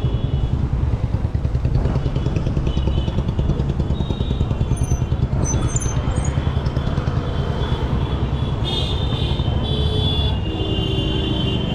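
Wind buffeting the microphone of a bicycle rider coasting downhill: a heavy, constantly fluctuating rumble.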